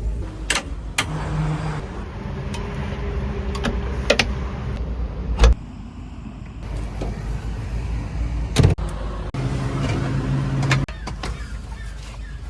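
A backhoe loader's diesel engine running under work, with a pitched hydraulic whine coming in briefly twice and several sharp metal clanks, the loudest about five and a half seconds in and again near nine seconds.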